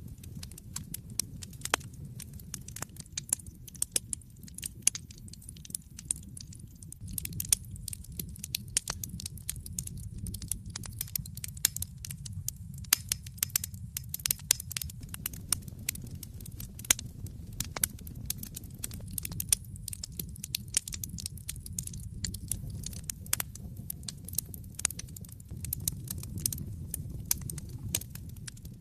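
Wood fire burning in an open fireplace: irregular sharp crackles and pops over a steady low rumble of the flames, the crackling busier from about seven seconds in.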